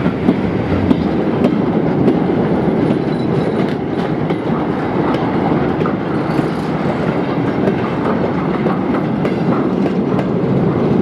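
A train running along the track: a steady, loud rumble of wheels on rail with faint scattered ticks.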